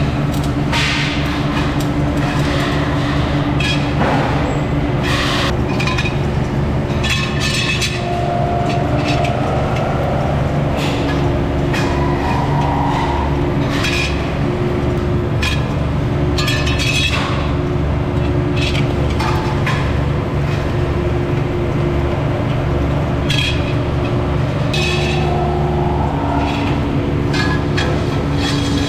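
Factory machinery working metal for motorcycle wheel rims: a steady low machine drone, with irregular sharp metallic clinks and knocks throughout and a few brief whines.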